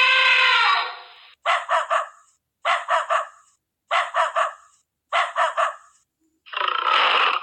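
Animal calls: a long pitched call ends about a second in, followed by four groups of three quick calls about a second apart, and a harsher, noisier call starting near the end.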